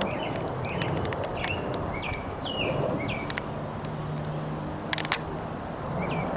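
A songbird chirping a run of short, downslurred notes, about two a second, with a pause in the middle, over steady outdoor background noise. A low steady hum comes in about halfway, and there are a couple of sharp clicks about five seconds in.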